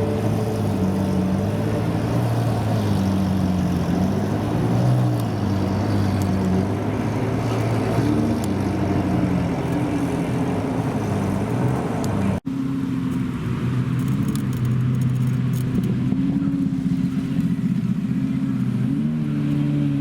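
Supercar engines running steadily at low revs, with a low, even drone whose pitch wavers only slightly; the sound cuts out for an instant about twelve seconds in, then resumes.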